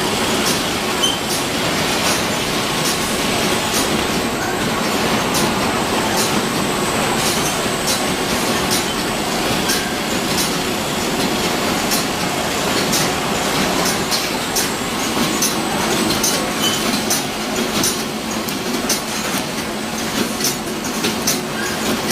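Packaging line running steadily as it packs small washing-powder sachets into a large group bag: a continuous mechanical din with repeated sharp clicks.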